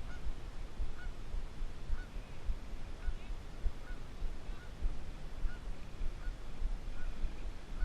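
Goose honking in short, repeated calls about once a second: an agitated goose guarding its nest, which the angler takes for anger at him coming near it.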